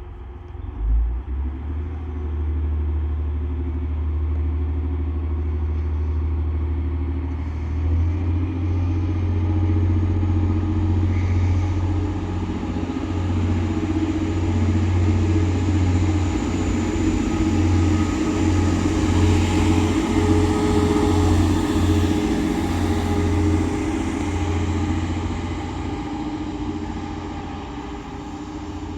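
Diesel engines of a Class 185 diesel multiple unit running up under power as the train pulls away, building about eight seconds in and easing off near the end. There is a brief thump about a second in.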